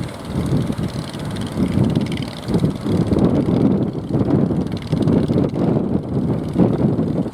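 Strong wind buffeting the microphone, a low rumble that rises and falls in gusts.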